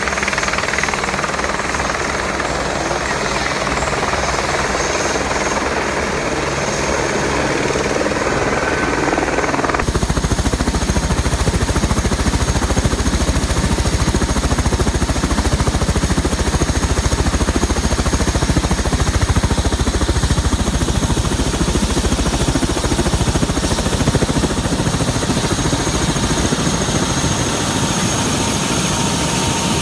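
Helicopter rotor and turbine running steadily, with the fast chop of the blades throughout. About ten seconds in the sound changes abruptly, and the low rotor beat becomes stronger.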